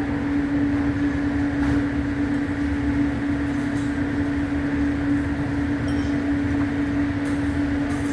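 Steady mechanical hum: one constant tone over a low, even rumble, with a few faint ticks.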